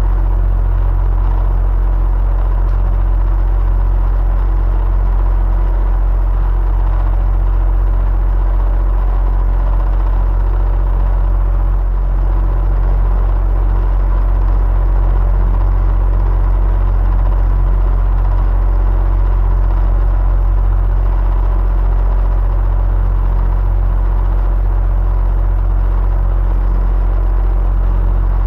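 Electric fan running steadily: a deep motor hum under the even rush of moving air, with faint steady tones riding on top.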